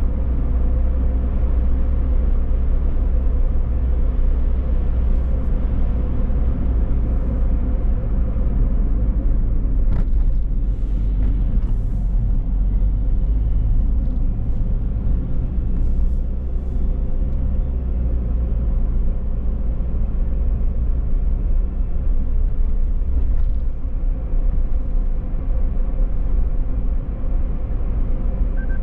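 Car driving on city streets: a steady low rumble of engine and tyre noise, with a few brief clicks about ten seconds in and again around sixteen seconds.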